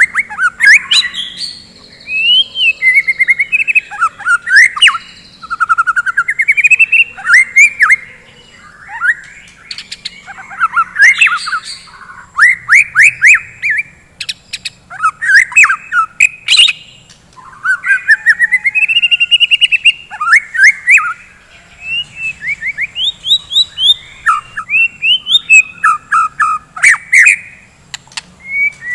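White-rumped shama singing loudly: fast, varied phrases of whistles, sweeps and trills broken by sharp clicks, delivered in bursts with short pauses between them.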